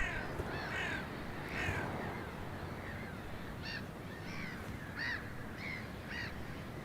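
Birds calling at a carcass in snowy open country: about a dozen short, harsh calls, spaced irregularly, over a low steady background hiss.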